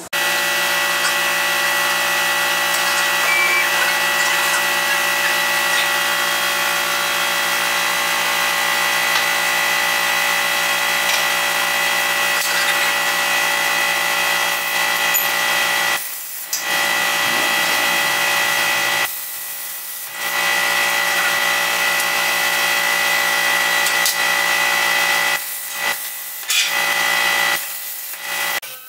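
A power tool running loudly at a constant pitch, a steady whine with a strong high overtone, cutting out briefly a few times: once at about 16 seconds, for about a second and a half near 19 seconds, and several times near the end.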